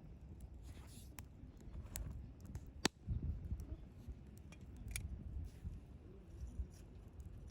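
Wood campfire crackling, with scattered small pops over a low rumble and one sharp loud pop about three seconds in.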